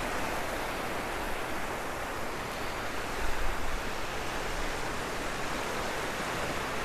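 Steady wash of ocean surf on a beach, an even noisy hiss with no distinct breaks.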